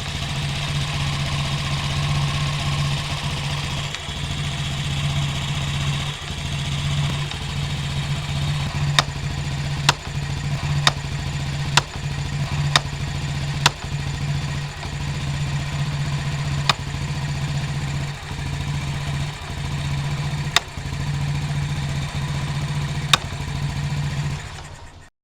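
Daelim Citi Best CB115 motorcycle's single-cylinder engine idling unevenly, its sound dipping every second or two, with sharp metallic ticks at irregular intervals, the 'woodpecker' noise of metal hitting inside the engine. The uneven idle is a fault the mechanic traced to a throttle body missing its adjusting screw.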